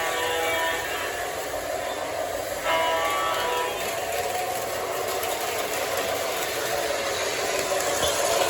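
Sound system of a LionChief Plus 2.0 Santa Fe RS model diesel locomotive: a horn blast fading out about a second in and a second short blast a couple of seconds later, then the steady engine-and-running noise of the locomotive moving on the O gauge track.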